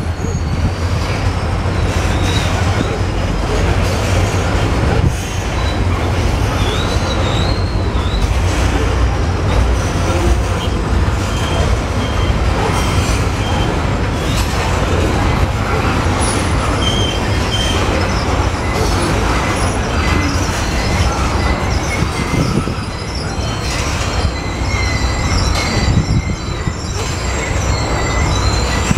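Freight train of covered hopper cars rolling past at steady speed: a continuous heavy rumble of steel wheels on rail, with thin high wheel squeals coming and going.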